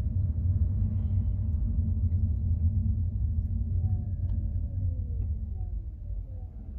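Low, steady rumble of a car driving along a road. It eases off toward the end, with a few short falling tones in the middle.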